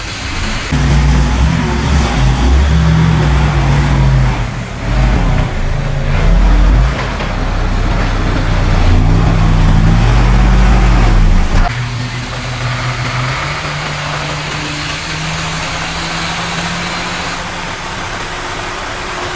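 Diesel engine of heavy earthmoving machinery working under load, its pitch rising and falling repeatedly for about eleven seconds, then dropping suddenly to a quieter, steadier running.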